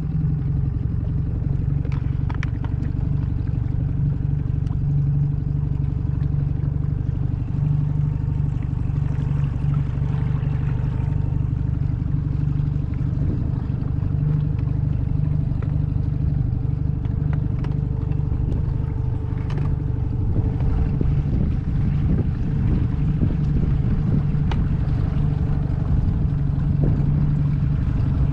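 Boat engine running steadily under way, a loud constant low drone that comes in suddenly at the start and holds its pitch throughout.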